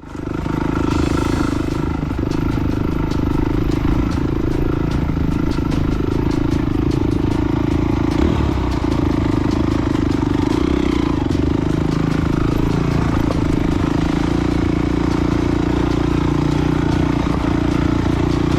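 Honda CRF250X dirt bike's 250cc single-cylinder four-stroke engine running at a fairly steady pitch while riding, with rapid clicks and rattles through the first half.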